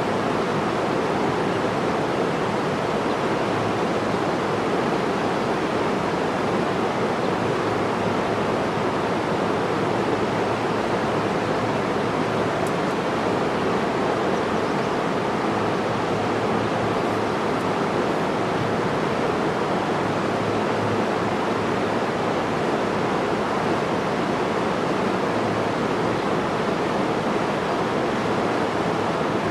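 Steady, unbroken rushing of water, an even wash of noise with no change in level.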